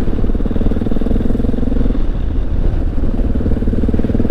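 Honda XR650L's air-cooled single-cylinder four-stroke engine running steadily under way on a loose gravel road, its note easing slightly about halfway through and then picking back up.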